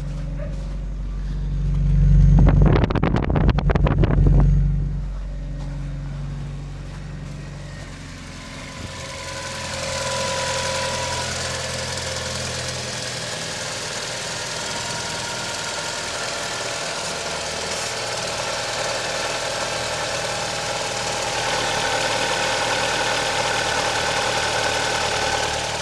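Opel Omega 2.2 16v four-cylinder engine running just after a cold start. It idles with a steady low hum and gets much louder for about two seconds, two seconds in, as in a brief rev. From about nine seconds in the sound turns brighter and hissier, with a steady whine over it.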